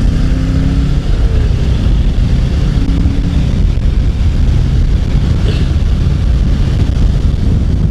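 Motorcycle riding at speed: a steady drone of engine and wind rush on the microphone, with a short engine tone standing out briefly near the start and again about three seconds in.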